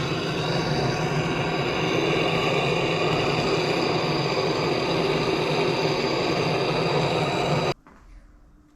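Electric heat gun running steadily, heating the aluminium crankcase half so the frozen bearings will drop into their bores. It switches off abruptly about three-quarters of the way through.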